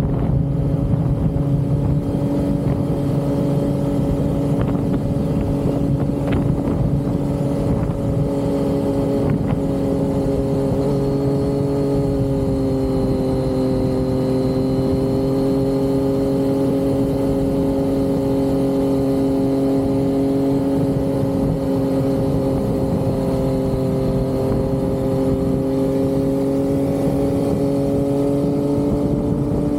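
Yamaha XSR900's inline three-cylinder engine and exhaust at steady cruising speed. The engine note holds steady, eases slightly lower in the middle and climbs back up near the end.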